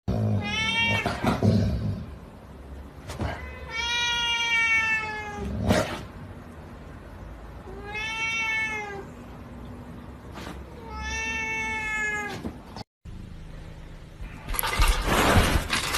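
A cat meowing: four long, drawn-out meows a few seconds apart, with a sharp knock or click here and there. A short burst of noise follows near the end.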